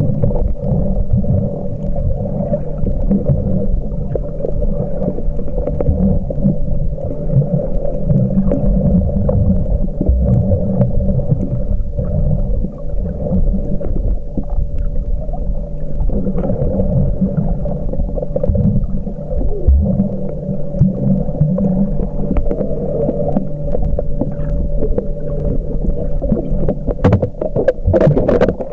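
Muffled underwater noise recorded while snorkelling: a steady low rumble with a constant hum running through it, and a few sharp clicks near the end.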